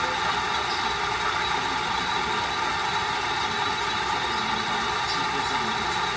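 Steady truck diesel idle from the Tamiya Volvo FH16 RC truck's electronic sound unit, running evenly without revving.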